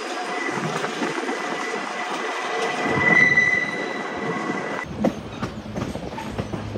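Passenger train cars rolling along curved track, with a thin, high wheel squeal that swells to its loudest about three seconds in. Just under five seconds in the sound changes abruptly to a rattle of short clicks from the wheels on the rails.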